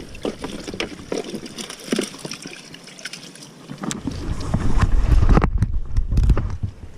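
Wind buffeting the microphone, heaviest as a loud low rumble from about four to six and a half seconds in, over scattered small clicks and knocks.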